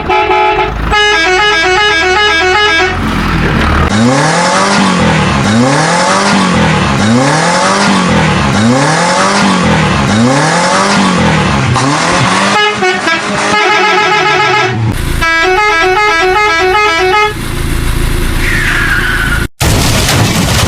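Vehicle horn sounds: a rapid two-note horn pattern, then a low tone that rises and falls about once every second over a hiss, then the rapid horn pattern again.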